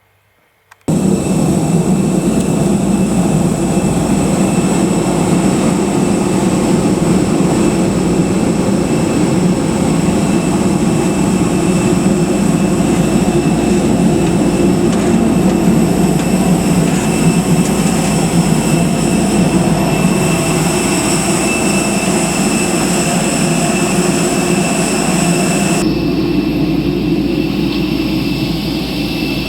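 Airbus A320neo's CFM LEAP-1A jet engines running, a steady loud rumble with high whining tones over it, starting abruptly about a second in. The sound shifts slightly near the end.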